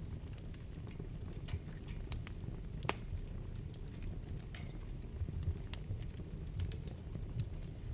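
Wood fire burning in a fireplace: a steady low rumble of flames with scattered crackles and pops from the burning wood, one sharper pop about three seconds in.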